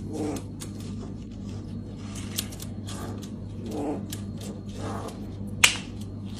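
Irregular light clicks and taps over a steady low hum, with one sharper click near the end.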